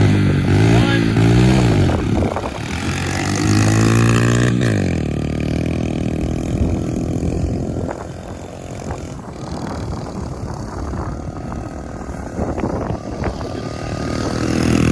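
Pit bike engine revving hard as it pulls away, the pitch climbing and dropping back with each gear change; about five seconds in it falls away to a lower, rougher running sound mixed with scraping and clatter.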